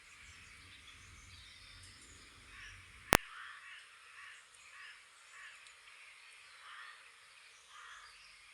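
Birds calling, a steady scatter of short repeated calls. About three seconds in there is a single sharp click, and a low hum underneath stops at the same moment.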